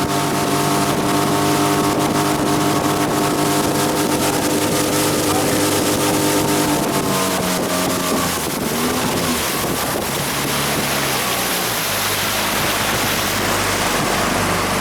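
Boat engine running at a steady pitch, then throttled back about seven seconds in so its pitch falls and it carries on lower and quieter, over a steady rush of wind and water.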